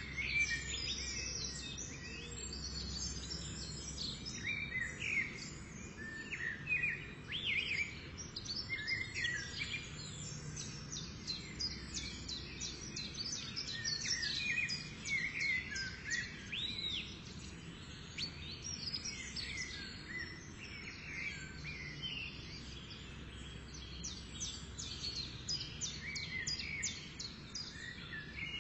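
Many small birds chirping and singing in quick, overlapping calls over a steady low background rumble.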